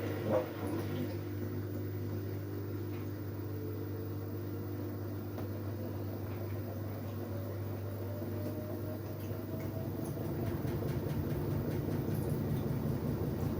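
An LG Direct Drive 8.5 kg washing machine running, with a steady hum and a thin whine that rises slowly in pitch as the drum speeds up. A short knock comes just after the start, and a rougher rumble builds about ten seconds in.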